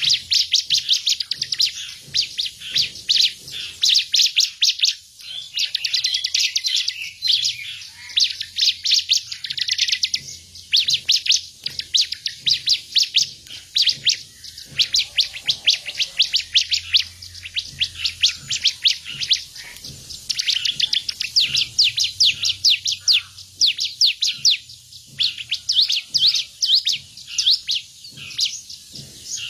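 A songbird singing in fast, loud trains of sharp, high repeated notes with only brief pauses between them: the rapid-fire 'tembakan' song prized by Indonesian songbird keepers.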